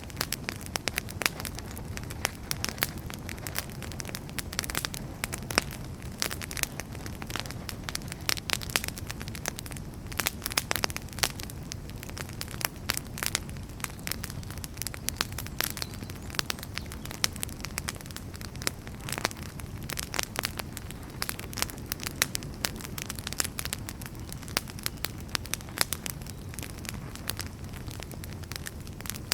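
Burning firewood crackling steadily, with frequent irregular sharp pops and snaps over a low, even rumble of the fire.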